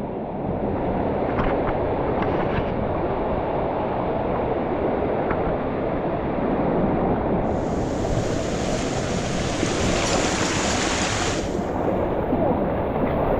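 Waterfall in a mountain stream, its water rushing in a loud, steady roar. About seven seconds in, a brighter, hissing splash joins for about four seconds, then drops away.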